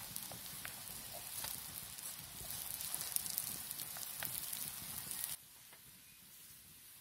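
Hot oil sizzling in a wide metal pan as boiled potato is tipped and scraped in from a bowl onto fried onions, with small crackles and clicks of the spoon. The sizzle cuts off suddenly about five seconds in, leaving a much quieter background.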